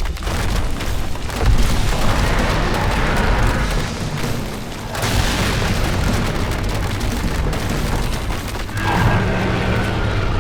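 Cartoon battle sound effects: heavy booming and a dense rushing noise that continues with no break, over dramatic background music.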